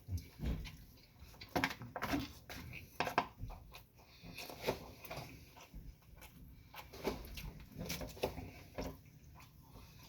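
Eating sounds: close chewing and mouth noises, with irregular clicks and knocks of dishes and cutlery.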